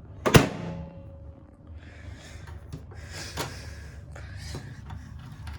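Microwave door latch clunking open or shut once, sharply, with a brief ringing tone after it, followed by faint handling noises.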